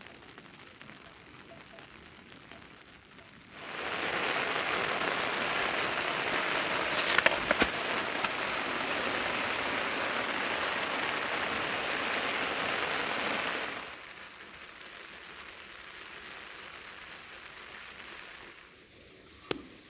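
Rain falling: a soft hiss that switches abruptly to a much heavier downpour for about ten seconds, with a few sharp drop impacts in it, then drops back to a lighter patter.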